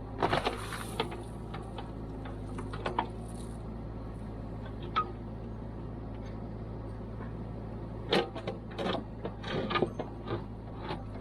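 Kubota KX121-3 mini excavator's diesel engine running steadily while it dredges, with scattered clanks and knocks from the bucket working the creek bed, several in quick succession near the end.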